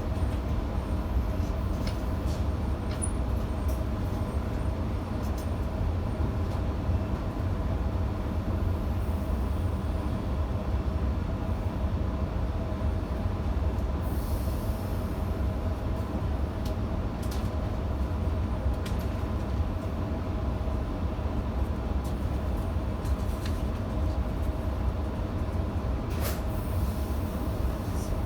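Electric passenger train running between stations, heard from inside the carriage: a steady low rumble with a constant hum and scattered clicks from the wheels and running gear.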